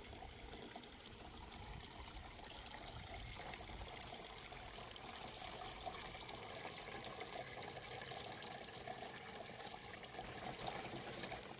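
Small garden water fountain running: a faint, steady trickle and splash of flowing water.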